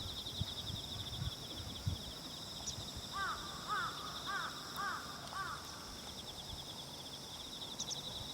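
A bird calling five times in quick succession, harsh arched calls about half a second apart near the middle, over a steady high chirring of insects.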